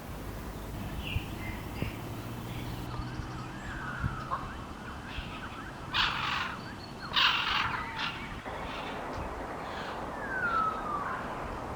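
Wild birds calling in a forest: a few short falling whistles and two short harsh calls, with faint chirps over a steady background hiss.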